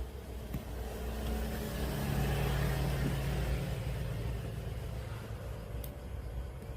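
A motor vehicle passing by: a low engine hum and broad noise that swell to a peak about two to three seconds in and then fade.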